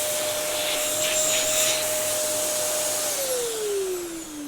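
Dyson DC07 bagless upright vacuum cleaner running with a steady motor whine, then switched off about three seconds in, its whine falling as the motor spins down.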